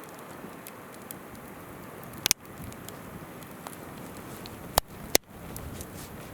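Wood campfire crackling, with a sharp pop a little over two seconds in and two more close together near the five-second mark, over the steady rush of a flowing river.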